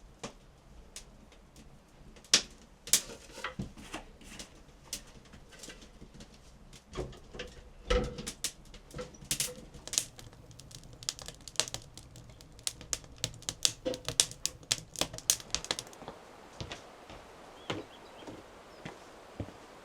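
A run of irregular sharp taps and clicks, sparse at first, coming thick and fast in the middle, then thinning out near the end.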